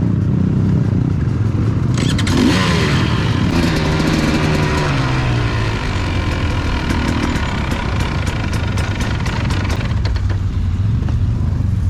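Motorcycle engine running, its note climbing sharply about two seconds in and then falling steadily over the next few seconds, with a low rumble throughout and faint clicks later on.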